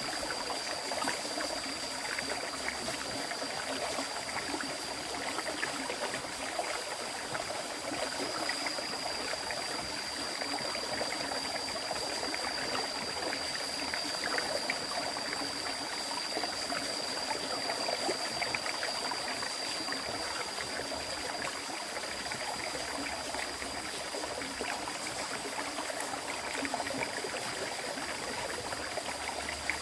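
River water flowing and rushing over stones, a steady, even stream sound with a rippling texture. A thin, steady high-pitched whine sits above the water.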